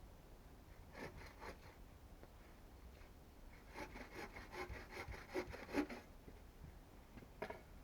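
Hand saw cutting wood in short back-and-forth strokes: a few strokes about a second in, a quicker run of about ten strokes a little past the middle, and one more near the end.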